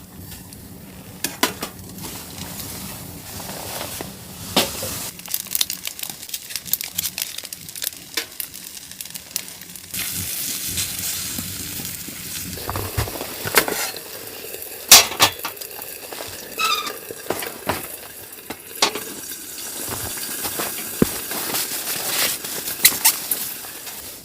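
Food sizzling in a pan, with a utensil stirring and clinking against it in many sharp knocks; the sizzle grows louder about ten seconds in.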